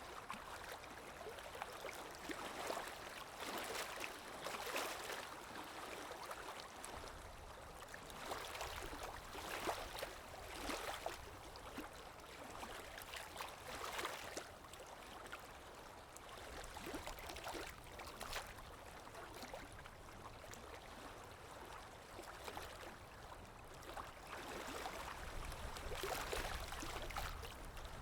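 Calm waves lapping, with small splashes swelling and fading every second or two.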